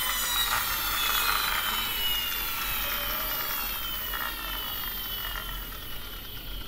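A toy bus's friction motor whirring after a push, its pitch falling slowly as it winds down.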